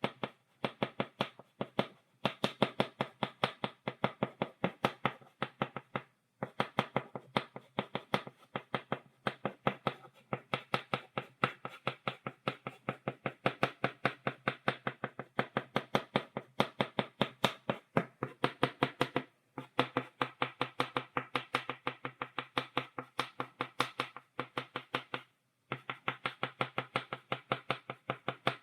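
Chalk tapping against a blackboard in quick, even strokes, several sharp taps a second, laying down dots, with a few short pauses.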